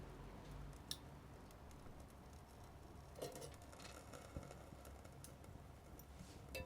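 Faint, scattered ticks and clicks: a sharp click about a second in and a short cluster of small clicks a little past the middle.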